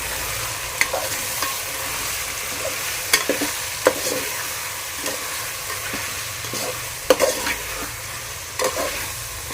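Chicken frying in oil with ginger-garlic paste and herbs, sizzling steadily as the water it released cooks off, while it is stirred in the pan, with sharp knocks of the stirring spoon against the pan every second or so.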